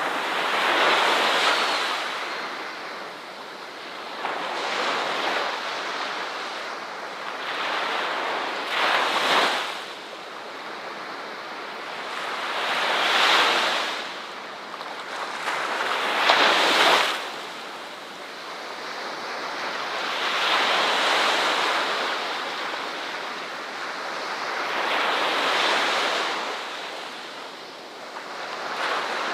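Ocean surf: waves breaking and washing in, the rush of water swelling and falling away roughly every four seconds, with a few sharper crashes.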